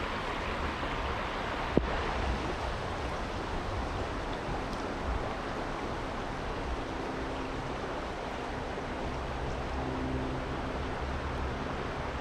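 Steady rush of a small creek's flowing water, with a single sharp click about two seconds in.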